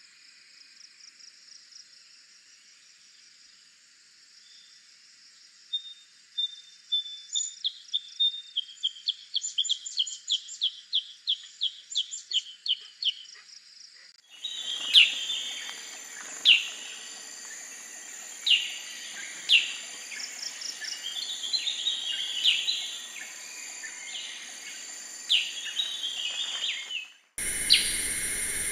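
Black-headed bulbul calls from spliced field recordings. First comes a run of short sharp notes, about three a second, over a steady high drone. After an abrupt change of background about halfway through, there are single sharp calls a second or two apart, and another abrupt cut near the end leads to a hissier recording.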